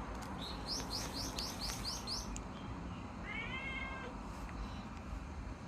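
A small bird sings a quick run of about seven high, evenly spaced chirp notes, and about three seconds in a cat gives one short meow, over a steady low background rumble.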